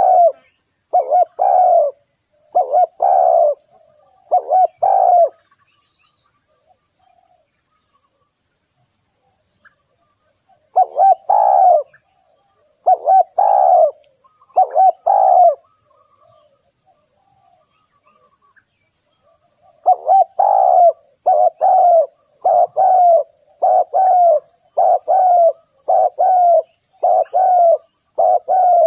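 Spotted dove cooing: a decoy bird's call, short coos repeated about two a second in three bouts with pauses of several seconds between them.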